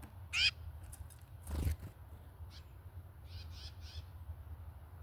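Bird calls: one loud, harsh call just after the start, then a run of three fainter calls about three and a half seconds in. A short whoosh comes between them, and a low steady rumble runs underneath.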